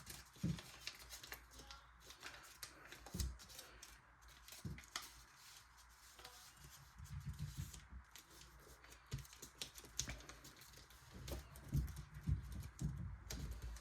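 Origami paper being folded and creased by hand: faint scattered crinkles, taps and rustles.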